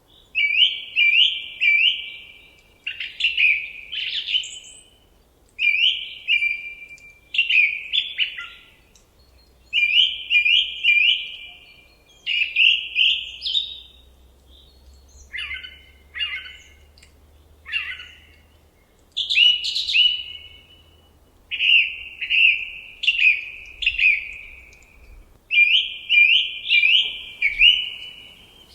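A songbird singing in a forest, repeating short phrases of a few quick whistled notes with brief pauses between them.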